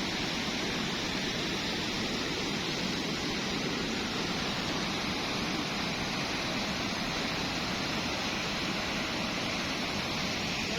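Mountain stream rushing over rocks, a steady, even roar of water.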